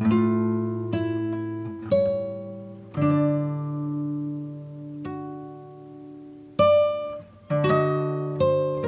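Background music: acoustic guitar playing plucked notes and chords, each ringing out and fading, with quicker picked notes near the end.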